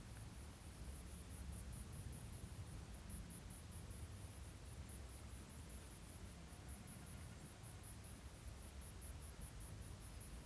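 An insect, cricket-like, calling steadily in a high-pitched, evenly pulsed trill of about five pulses a second, over a faint low rumble.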